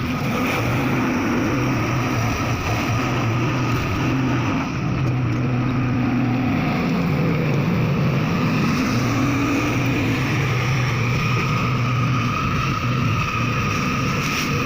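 Komatsu PC200-5 excavator's diesel engine running steadily, its pitch wavering slightly as it works.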